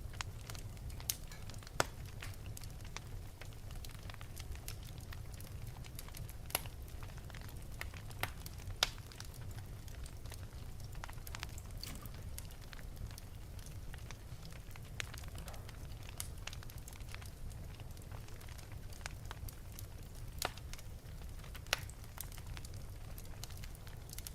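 Wood fire burning in an open fireplace: a steady low rumble of flames with irregular sharp crackles and pops, a few louder than the rest.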